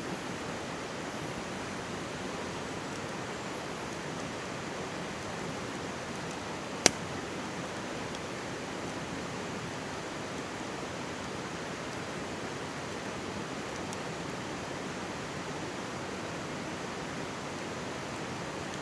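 Mountain stream rushing steadily, with one sharp pop from a wood campfire about seven seconds in.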